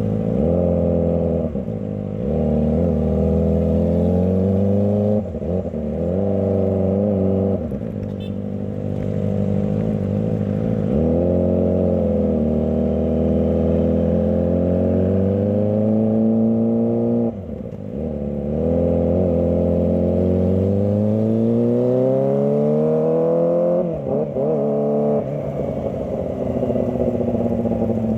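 Kawasaki ZX25R's 250 cc inline-four engine accelerating and shifting gears: the pitch climbs and drops off again and again in short pulls, with one long, smooth climb in the second half.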